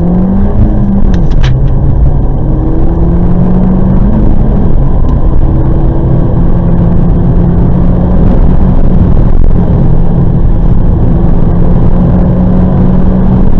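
Peugeot 208 GTi's turbocharged 1.6-litre four-cylinder heard from inside the cabin, accelerating hard. Its pitch climbs and drops back twice in the first five seconds as it changes up, then holds steady at high road speed over constant tyre and road noise.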